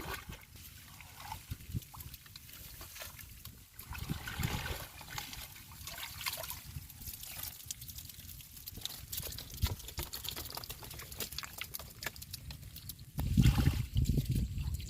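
Water trickling and splashing in shallow, grassy water, with scattered small splashes and a louder stretch of sloshing near the end.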